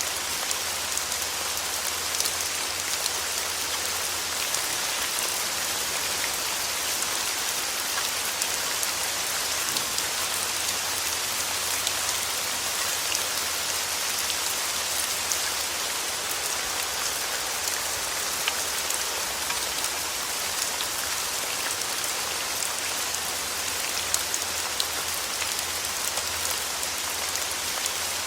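Steady rain falling: an even hiss strongest in the high range, dotted with many small sharp drop ticks.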